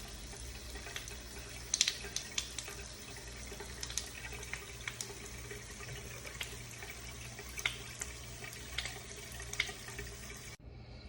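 Water running from a tap into a sink, a steady rush with small splashes and clicks, cut off suddenly near the end.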